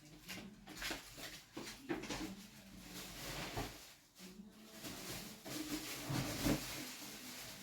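Scattered light knocks and clatter of food containers being handled and set aside.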